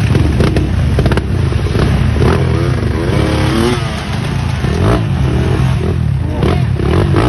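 Racing vehicle engines running, with one rising and falling in revs for a couple of seconds, over a dense low rumble.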